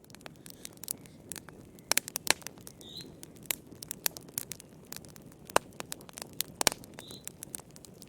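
Wood fire crackling in a fireplace: irregular sharp pops and snaps, several close together about 2 s in and again near 6.5 s, over a steady low rumble of burning.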